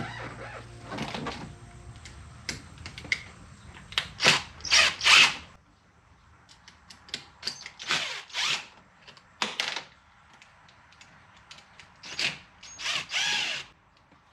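Power screwdriver spinning out the Phillips screws of a truck door's switch panel in several short bursts, its motor pitch rising and falling, with small clicks of handling between.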